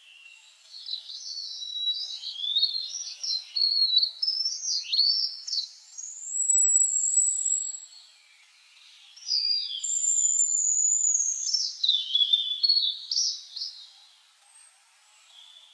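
Songbird singing: two long phrases of high whistles, warbles and sliding notes, with a pause of about a second between them.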